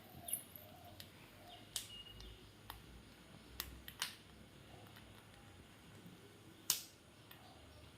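A handful of sharp, separate clicks and taps, the loudest one near the end, with faint soft sounds between them.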